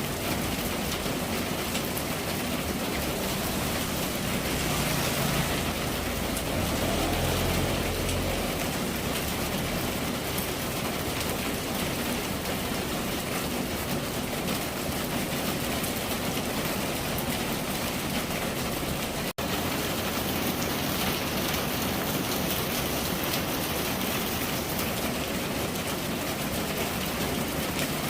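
Steady rain falling, an even hiss. A low rumble swells briefly about five to eight seconds in, and the sound cuts out for a split second about two-thirds of the way through.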